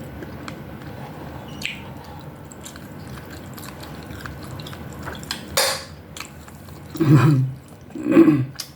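Close-miked chewing of food, with small clicks of a utensil against a dish, a brief noisy burst about five and a half seconds in, and two short voiced hums near the end.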